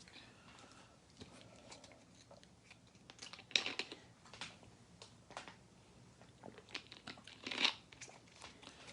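Faint, irregular crinkling and clicking handling noises, with two louder crinkly rustles about three and a half and seven and a half seconds in.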